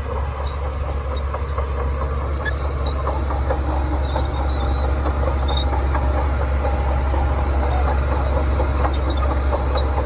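Shantui DH17C2 crawler bulldozer's diesel engine running with a steady low rumble, growing a little louder over the first few seconds, with scattered clanking clicks from its steel tracks.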